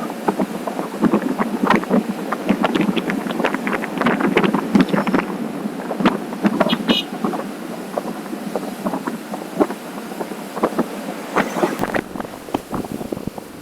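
Wind buffeting the camera microphone on a moving motorcycle, a rushing noise full of crackling gusts that eases off near the end.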